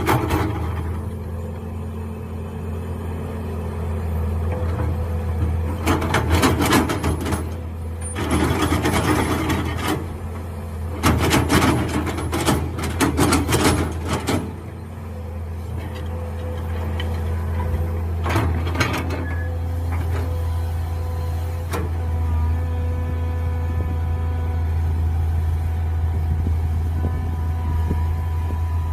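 Mini excavator engine running steadily, with three bursts of harsh scraping as the bucket digs, in the middle. A steady whine joins the engine over the last third.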